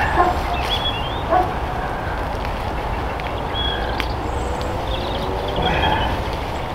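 Outdoor ambience with a steady low wind rumble on the microphone and a scattering of short, high chirping calls from animals in the distance.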